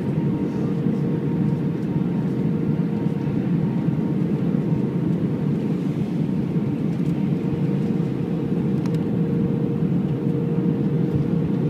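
Steady cabin noise of an Airbus A319 in flight: engine and airflow noise with a faint steady hum underneath, unchanging throughout.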